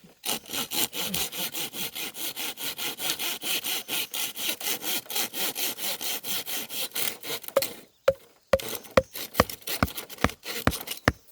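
A hand saw cutting through bamboo in fast, even back-and-forth strokes. After about eight seconds the sawing stops and a series of sharp chopping knocks follows.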